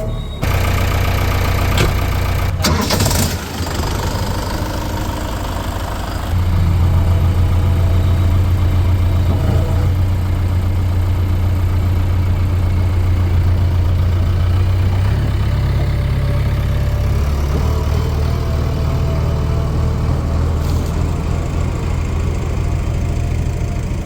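Heavy diesel engine of the earth-moving machinery running steadily, with its note rising in level about six seconds in and shifting in pitch a couple of times later. A brief clatter comes about three seconds in.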